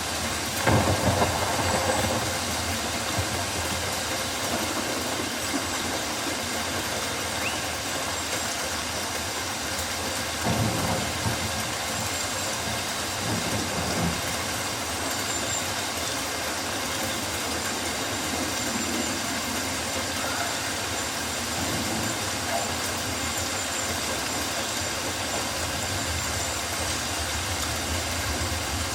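Steady rain falling in a rainforest, an even hiss throughout, with brief louder swells near the start and around ten and fourteen seconds in.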